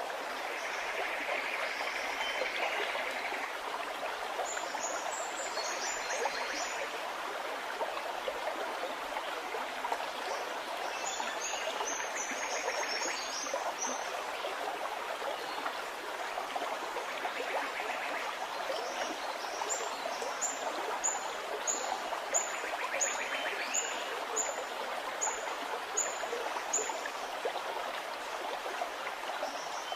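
A stream gurgling steadily, with small birds chirping high above it: two short flurries of chirps in the first half, then a run of evenly spaced high notes, about one every two-thirds of a second.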